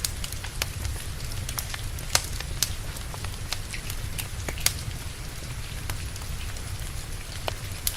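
Wood fire crackling, with irregular sharp pops and snaps, over a steady hiss of rain and a low rumble.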